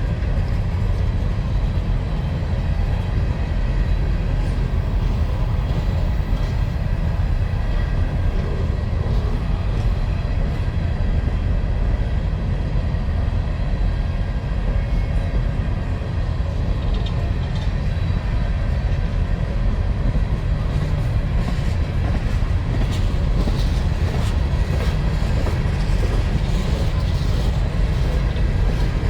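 Empty freight mine cars rolling past on the rails, a steady low rumble of steel wheels on track, with sharper wheel clicks in the second half.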